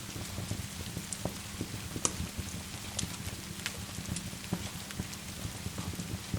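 Steady rain hiss mixed with a crackling wood fire: scattered sharp pops and crackles throughout, one louder pop about two seconds in.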